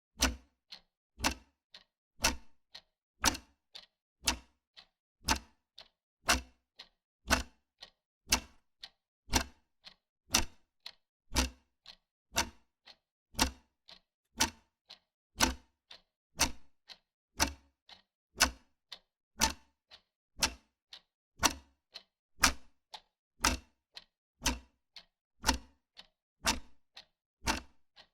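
Wall clock ticking steadily, a sharp tick about once a second alternating with a softer one between.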